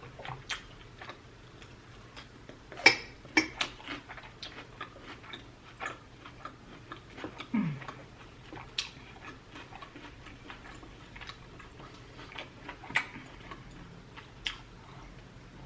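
Close-miked eating sounds: steak being chewed, with many irregular moist clicks of the mouth. There is a brief falling hum about halfway through.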